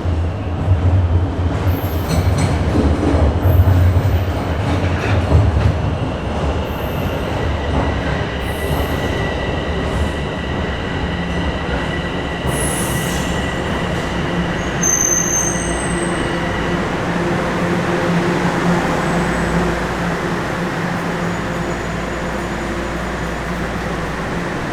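Bombardier Toronto Rocket subway train running on the line: a heavy rumble for the first few seconds, then a steadier run with thin wheel-squeal tones.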